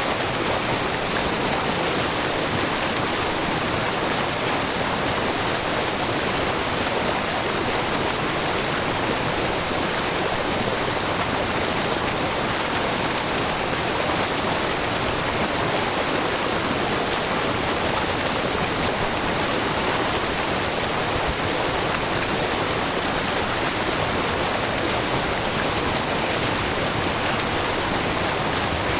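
Wide, low curtain waterfall fed by spring water trickling and falling over a rock face, giving a steady, even rush of splashing water.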